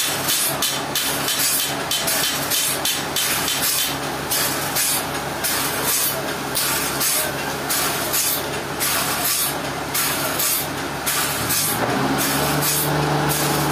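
A large engine running steadily, with a hissing, rasping noise over it. Near the end its note steps up and becomes stronger and steadier.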